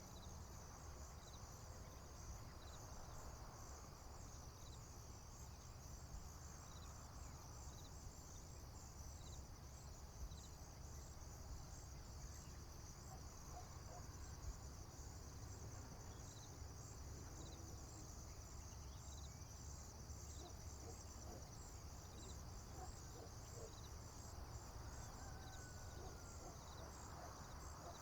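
Crickets chirping in a high, steady, rapidly pulsing chorus, over a low steady rumble, with a few faint short calls lower down in the second half.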